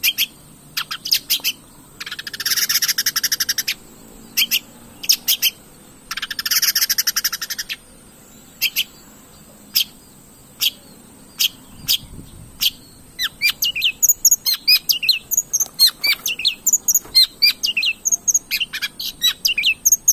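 Long-tailed shrike (cendet) in full song. It gives two harsh, rapid rattling bursts in the first half, with sharp single chips between them, then breaks into a fast run of varied chirping notes about two-thirds of the way through.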